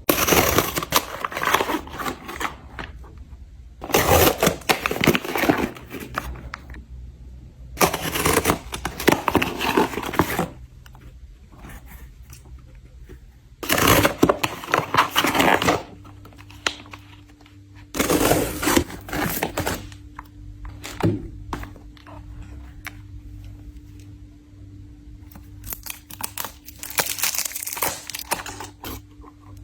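Packaging being handled: repeated bursts of crinkling and tearing, each lasting a few seconds. A steady low hum starts about halfway through.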